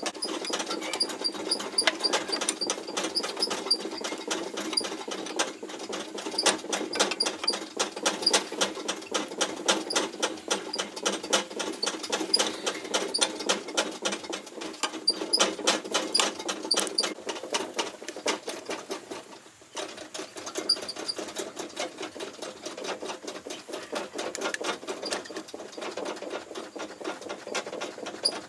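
Rapid, irregular clicking and scraping, many strokes a second, with a brief lull about nineteen seconds in.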